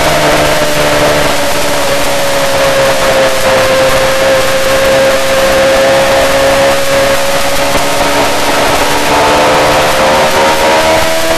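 Yamaha R6's inline-four engine running at high revs under way, its pitch easing slowly down over the first few seconds, holding, then climbing again near the end as the throttle opens, over a steady rush of wind noise.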